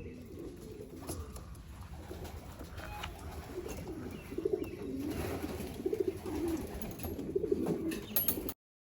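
Racing homing pigeons cooing, the cooing growing louder and busier about halfway through, with a few light clicks among it. The sound cuts off abruptly just before the end.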